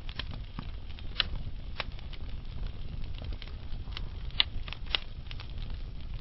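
Wood fire burning with a low steady rumble and irregular sharp crackles and pops, the loudest pops about a second in and again past four seconds.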